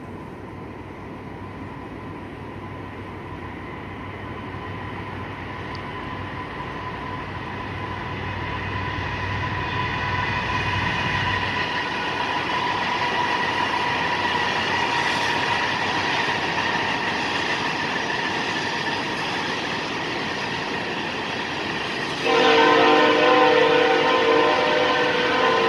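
CSX freight train approaching, its rumble growing steadily louder, then the locomotive's air horn sounding loudly near the end.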